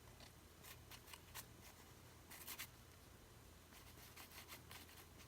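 Faint, brief scratchy strokes on paper, coming in small clusters, as gesso is worked onto a paper-bag journal page for a worn, scraped-paint look.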